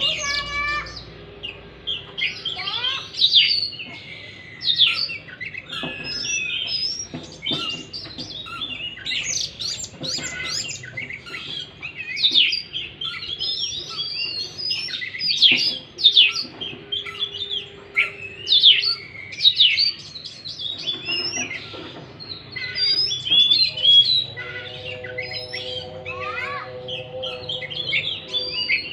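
Oriental magpie-robin (kacer) singing without pause, a fast, varied run of whistles, chirps and short trills, as used in a lure recording to prompt a silent caged kacer to sing. A steady buzzing tone briefly joins near the end.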